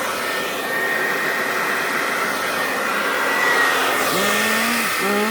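Remington blow-dryer running steadily, a constant rush of air with a thin, high whine.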